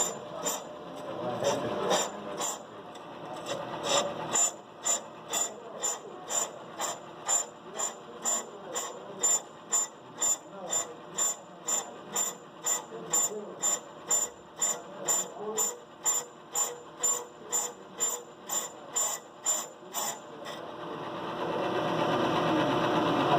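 Brake lathe running with a brake drum mounted, giving a sharp, regular tick about twice a second. The ticking stops near the end and a steadier, louder running or cutting noise builds up.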